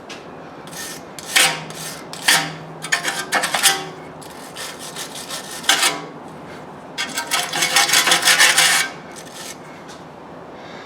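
Rasping, scraping strokes in irregular bursts, with a longer run of quick scrapes near the end.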